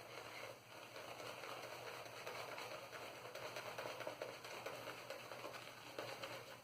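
Maggard 22mm synthetic shaving brush swirling Stirling shaving-soap lather on a face in circular motions: a steady, soft, wet swishing and crackling of lather that stops near the end.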